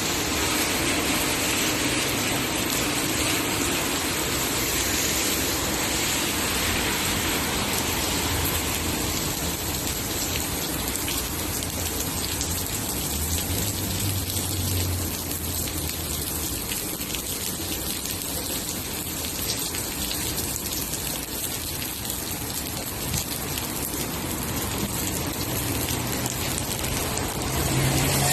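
Steady rain falling, with a low engine hum coming through about halfway in and again near the end.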